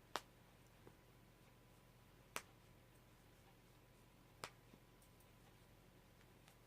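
Snap fasteners on a baby outfit being pressed shut: three sharp clicks about two seconds apart, over near silence.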